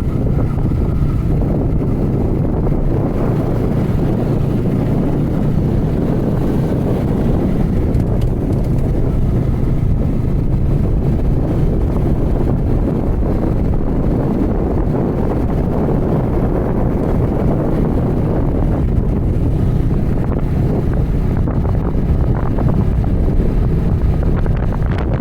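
Steady wind rush buffeting the microphone of a moving motorcycle, with the engine running at an even pace underneath.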